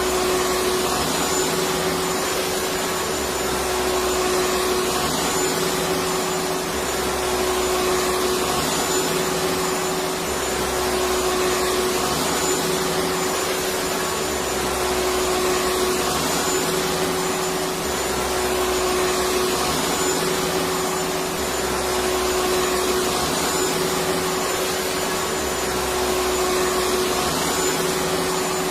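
Vacuum cleaner running steadily: a continuous hum with a steady motor tone. A low rumble swells and drops in a regular cycle every few seconds.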